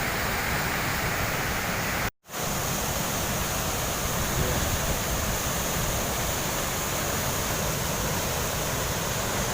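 Waterfall: steady rushing of falling water, which cuts out for a moment about two seconds in.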